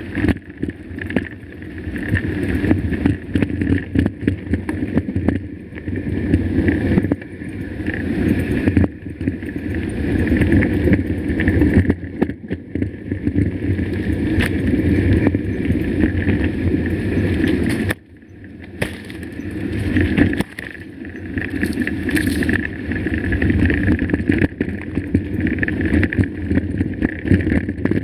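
Mountain bike ridden over a rough trail: steady rushing wind noise on the bike-mounted camera's microphone, with the tyres and bike rattling over stones. It eases off briefly a few times, most clearly about two thirds of the way in.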